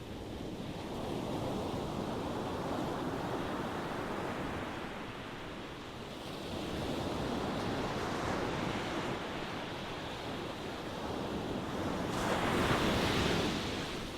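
Ocean waves washing ashore, the surf rising and falling in slow swells, with the biggest wave breaking near the end.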